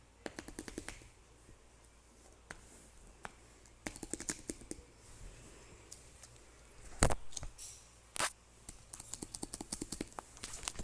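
Bursts of rapid small clicks and crackles from objects being handled close to the microphone, with two louder knocks about 7 and 8 seconds in.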